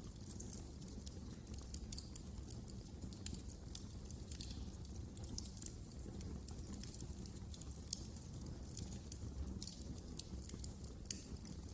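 Wood fire crackling in a fireplace: frequent irregular sharp pops and snaps over a low steady rumble of the flames.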